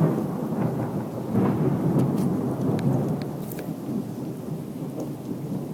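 Thunder rumbling long and loud, strongest at first and slowly fading, with rain falling.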